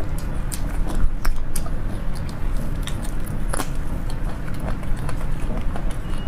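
Close-miked eating sounds of braised beef bone marrow: chewing and mouth sounds, with scattered clicks and knocks as a straw is worked into the marrow bone, over a steady low rumble.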